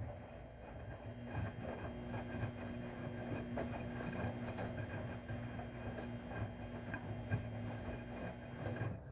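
Haier washing machine running a wash of towels: a steady motor hum over a low rumble of the turning drum, with scattered small knocks. It cuts off suddenly near the end.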